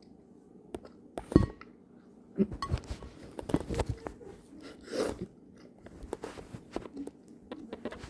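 A person chewing a whole, very chewy gummy candy: irregular mouth clicks and smacks, loudest about a second and a half in.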